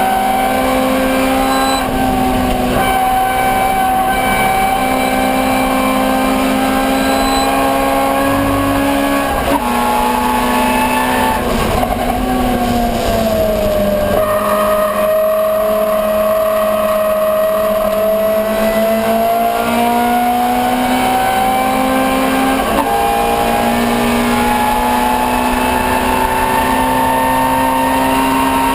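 Ford Escort 1300GT race car's 1300cc four-cylinder engine running hard at high revs. Its pitch climbs slowly, dips briefly about nine seconds in, and falls away over a couple of seconds around twelve seconds in. It then climbs steadily again, with one quick dip near twenty-three seconds.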